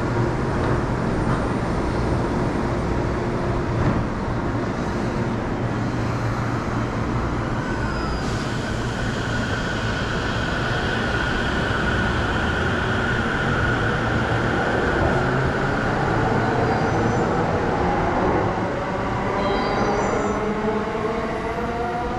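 JR Chuo-Sobu Line electric commuter train pulling out of the station: a steady rumble with a steady high whine, then motor whines rising in pitch together near the end as it picks up speed.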